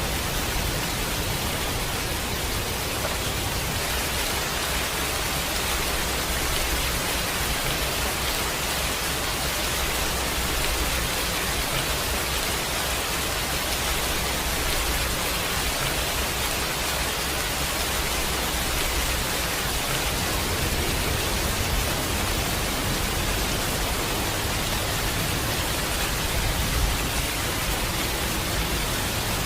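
Steady heavy rain, an even hiss, with a low rumble underneath that eases about two-thirds of the way through.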